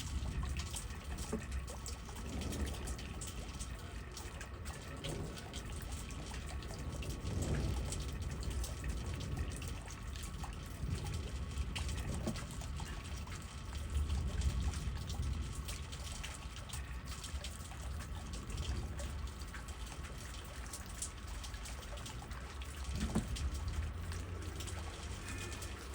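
Rain falling on trees, with many close drips and patter over a low rumble of wind that swells in gusts a few times.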